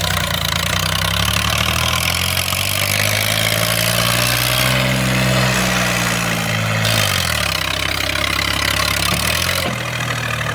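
Tractor diesel engine revving. Its pitch climbs slowly for about five seconds, then falls back to a lower, steady speed about seven seconds in. A loud steady hiss runs over it.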